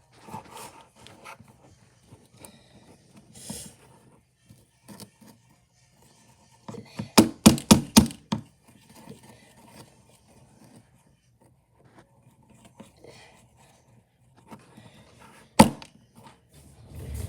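Hands working sticky slime while adding dye: scattered soft squishes and small clicks, a quick run of loud sharp knocks about seven seconds in, and one more sharp knock near the end.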